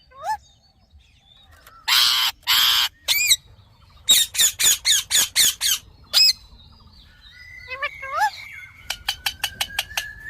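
Indian ringneck parakeet squawking. Two harsh screeches come about two seconds in, then a quick run of about eight short sharp calls, and a rapid string of short notes near the end.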